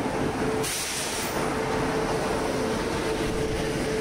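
An Indian Railways WAP-7 electric locomotive and its train rolling slowly past along the platform as it pulls into the station, with rumbling wheels and a steady hum. There is a brief hiss about a second in.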